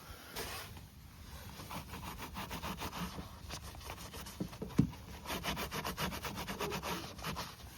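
Wet sponge scrubbing back and forth on a car's painted roof, quick rhythmic rubbing strokes that get faster and denser in the second half. A single sharp knock sounds a little past halfway.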